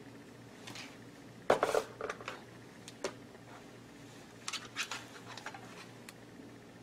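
Makeup brush and eyeshadow palette being handled: a scattered series of short taps, clicks and light scrapes, the loudest about a second and a half in and another cluster near five seconds.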